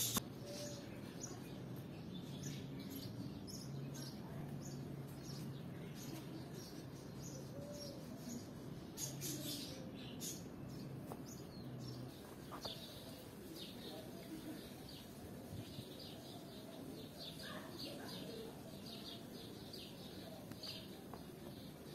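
Small birds chirping on and off, faint. A low steady hum runs under the first half and stops about halfway through.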